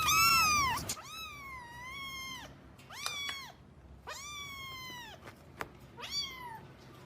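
A cat meowing repeatedly: about five high, drawn-out meows with gaps between them, the first and loudest right at the start.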